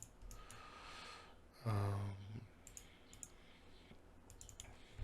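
Several sharp computer clicks from a mouse or keyboard, grouped in the second half, with a breath and a short voiced hum from the narrator about two seconds in.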